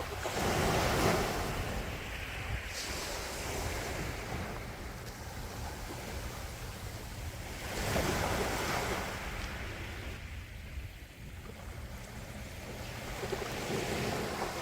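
Sea waves breaking and washing ashore, a steady rush with waves cresting about a second in and again about eight seconds in, and a gentler one near the end.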